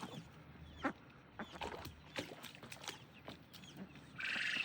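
Farmyard birds: scattered small chirps and taps, then a loud, harsh duck quack near the end.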